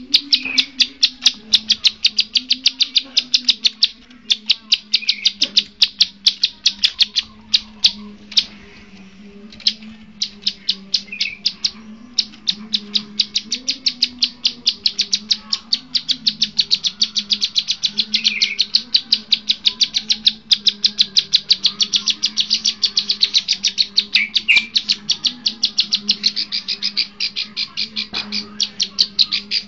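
A songbird giving a fast, even series of short, sharp high chirps, several a second, broken by brief pauses, over a low wavering hum.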